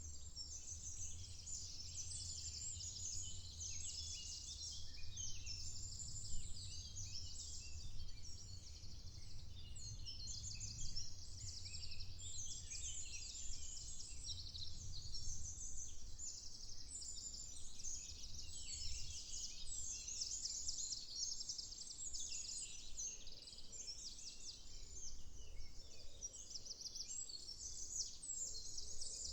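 A dawn chorus of many small songbirds chirping and trilling at once, the high calls overlapping without pause, over a steady low rumble.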